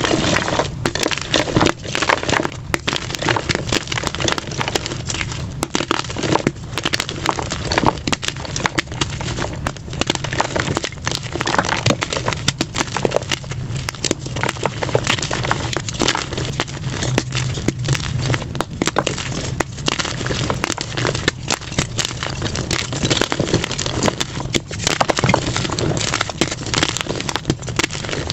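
Blocks of plain gym chalk crushed by hand, with dense, continuous crunching and crackling, played back at double speed.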